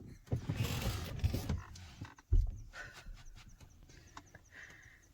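Lioness growling, then about two seconds in a sharp thump, the loudest sound.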